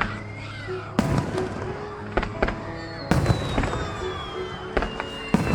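Aerial fireworks shells bursting in a string of sharp bangs, the biggest about a second in and about three seconds in, over show music with held notes.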